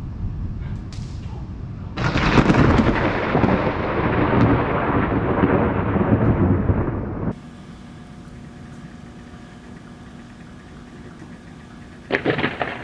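Close thunder: a sudden loud clap about two seconds in, rumbling on and fading for about five seconds before cutting off abruptly. A much quieter stretch follows, and another loud burst begins near the end.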